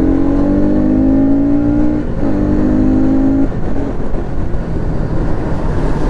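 Stock Bajaj Pulsar NS200's single-cylinder engine pulling hard under acceleration, its note rising. There is a brief break about two seconds in as a gear is changed, then it climbs again. A little after three seconds the note drops away into wind and road noise.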